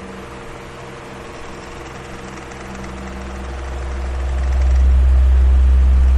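Electric fan running, its motor humming steadily under a whoosh of moving air. A deep low rumble swells up over the second half and stays loud near the end.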